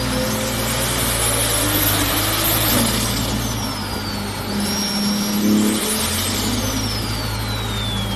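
Modified Toyota Supra A90's B58 turbocharged straight-six, fitted with an upgraded turbo kit and a full titanium exhaust, running at a fairly steady engine speed with a brief light rise in revs about five seconds in. A thin high whine slides slowly down and back up over it.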